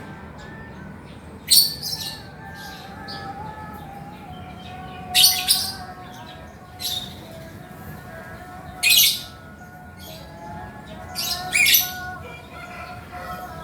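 Male lovebird giving short, shrill calls, about six of them spaced a second or two apart, over steady fainter chirping.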